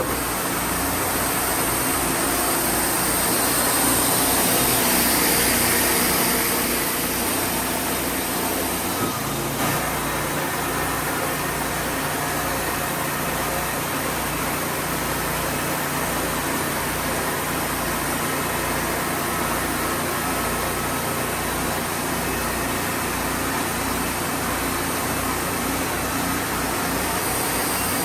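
An engine running steadily, its low hum shifting in pitch about nine seconds in.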